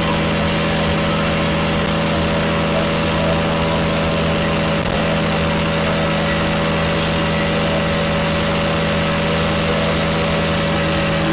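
Bajaj Pulsar NS125's single-cylinder engine held at full throttle on a roller speed-test rig near its top speed of about 107 km/h, running steadily at high revs at an unchanging pitch.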